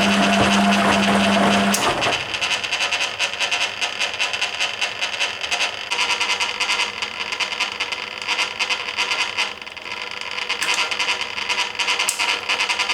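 Hoover Keymatic A3112 washing machine in its second rinse: water and laundry sloshing and clattering in the stainless steel drum. A steady low motor hum stops about two seconds in and starts again at the very end.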